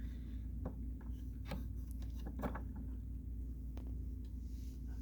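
A steady low hum with a few faint, scattered clicks and taps, like light handling of a plastic upright vacuum cleaner that is switched off.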